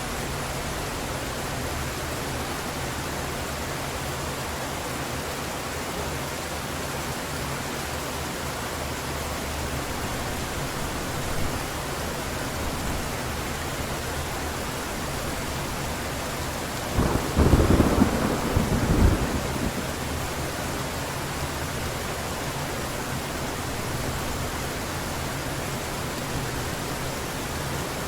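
Steady heavy rain hissing, with one loud crack-and-rumble of thunder about two-thirds of the way through that lasts roughly two seconds.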